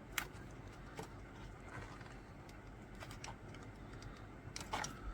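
A few faint, sharp clicks and taps, spaced irregularly with a small cluster near the end, from small hand tools being worked around a matrix band and retainer while a toothpick is pushed in as a wedge.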